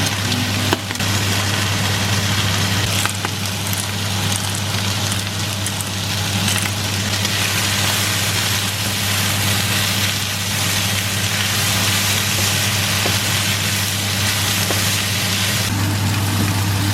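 A steady electric hum under an even hiss, with a few light clicks, as from an electric appliance running.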